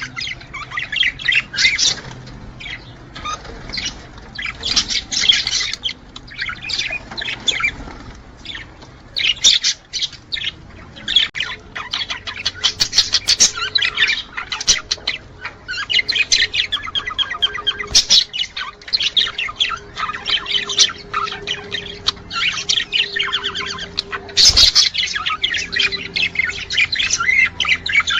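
Budgerigars chattering and warbling nonstop, with squawks and quick chirps overlapping: the courtship chatter of male budgies at mating time. A sharp knock near the end.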